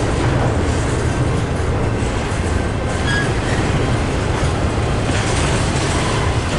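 A train running past with a steady, loud rumble of wheels on rails, with a brief faint squeal about three seconds in.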